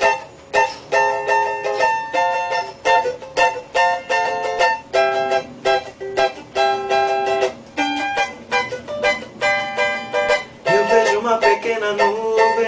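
Chords strummed on an acoustic plucked string instrument in a steady rhythm, roughly two strums a second with the notes ringing between them. Near the end a sustained lower note joins in under the strumming.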